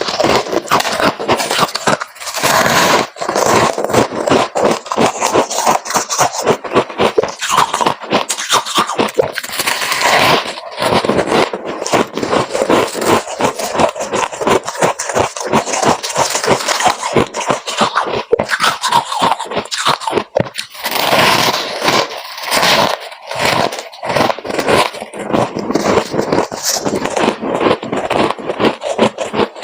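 Freezer frost being scraped and crunched up close: a dense, continuous run of crisp crackling and crunching.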